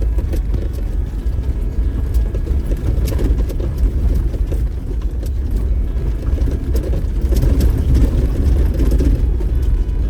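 Diesel Jeep driving over a rough dirt trail: a steady low engine and tyre rumble with a few light knocks and rattles.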